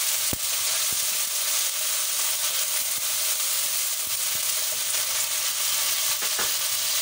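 Sliced onions and tomatoes sizzling steadily in hot oil in a non-stick karahi as they are stirred with a spatula. The spatula clicks against the pan a few times. This is the masala base being fried.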